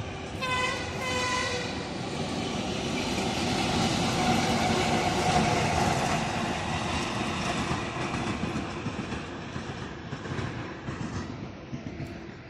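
Train horn giving two short blasts, then a train passing close by: the running noise of its wheels on the rails builds to its loudest midway and then fades as it moves off.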